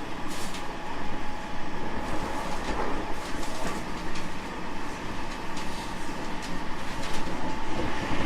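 Interior running sound of a JR West 225 series 5000 subseries electric train with a Toyo IGBT inverter: steady wheel and rail rumble with scattered clicks, and a thin steady tone that cuts off near the end.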